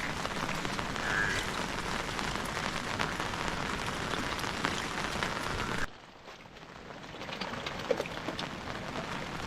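Steady rain falling, with scattered sharp drop impacts. About six seconds in it drops off suddenly, then builds back up over the next few seconds.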